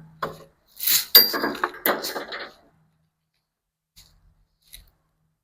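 A quick run of clattering knocks and clinks of hard objects being moved about, starting about a second in and lasting about a second and a half, followed by two faint taps near the end.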